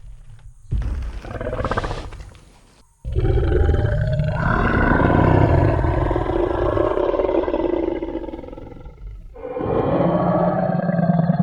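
Designed Tyrannosaurus rex roar sound effect: a short growl, then a long deep roar lasting about six seconds that fades out, and another roar starting near the end.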